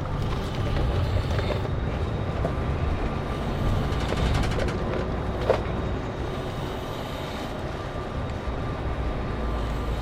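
Scania K410CB coach on the move: a steady low rumble of engine and road with light rattles and creaks, and one sharp click about five and a half seconds in.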